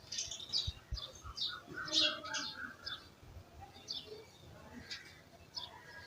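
Village songbirds chirping: many short, high chirps scattered throughout, with a quick run of lower notes early on the loudest stretch, and a few dull low thumps.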